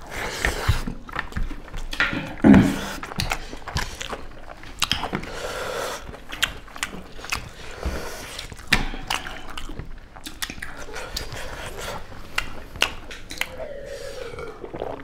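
Close-miked eating by hand: wet smacking, chewing and clicking of mouths and fingers as two people eat curry and rice, with a brief vocal grunt a couple of seconds in.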